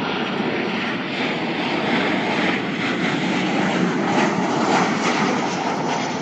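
Jet airliner engine noise: a steady, loud roar of jet engines running, swelling slightly in the middle.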